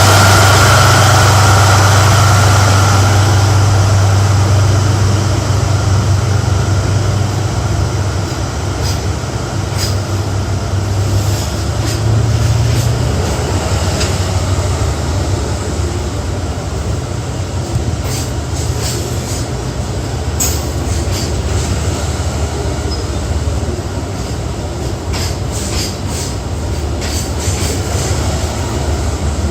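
Freight train passing close by: a heavy low hum from the locomotive for the first dozen seconds, then a long string of freight wagons rolling past with irregular clicking of wheels over rail joints and faint wheel squeal.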